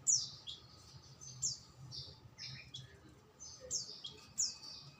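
A small songbird chirping: a quick run of short, high notes, most sweeping downward, several a second.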